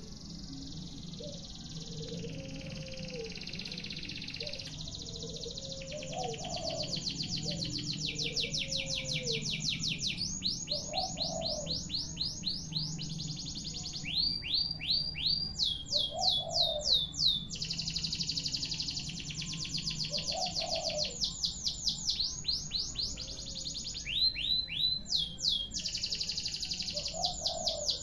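Domestic canary singing one long, unbroken song: a string of fast trills and rapid repeated notes, each trill held for a second or two before switching to the next.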